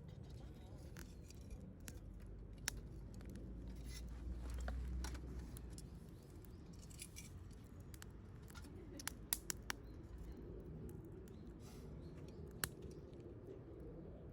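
Campfire crackling: burning wood pops and snaps at irregular intervals, with a quick run of sharp pops about nine seconds in, over a low steady rumble.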